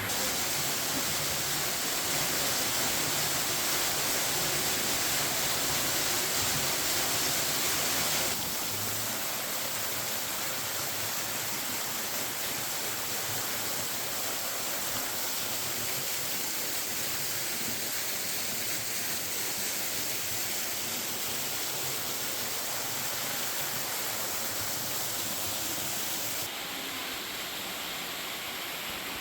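Waterfall of a creek pouring through a hole in a rock overhang and splashing down, a steady rushing of water. The sound drops abruptly in level about eight seconds in and again near the end.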